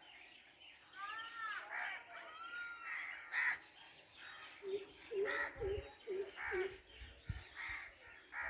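Several birds calling: arched whistled notes in the first couple of seconds, then a run of about five short, low calls in the middle, over a faint steady high hiss.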